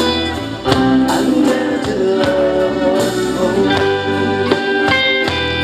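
Live band playing an instrumental passage between sung lines, led by guitar, with a steady beat.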